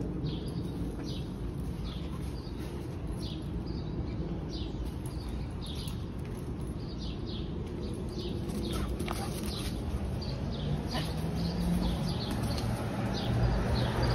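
Small birds chirping: short, high, falling chirps repeated two or three times a second, over a steady low hum of street traffic.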